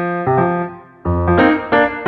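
Background music led by piano or electric piano, playing chords in a steady rhythm, with a brief pause about a second in.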